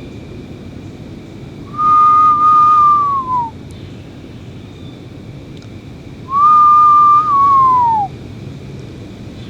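A person whistling two long notes, each held level and then sliding down at the end, about four seconds apart. The whistles imitate an eastern screech owl to draw one in.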